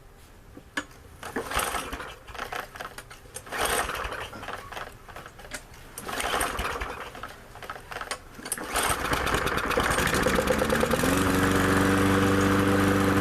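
MTD push lawnmower's small engine pull-started with the recoil starter on fuel primed straight into the carburetor. Several pulls crank it without a catch, then about nine seconds in it fires, picks up speed and settles into a steady run.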